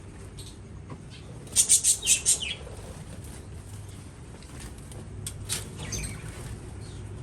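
Small aviary birds chirping and fluttering, with a quick run of about five loud, sharp high-pitched chirps and wing flutters about two seconds in, then a few fainter chirps.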